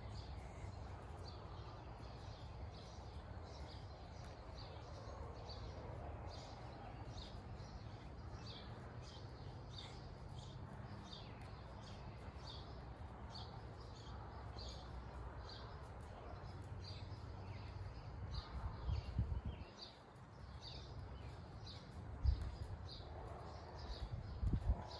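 Small birds chirping over and over, about two short chirps a second, over a faint low rumble, with a few louder low thumps near the end.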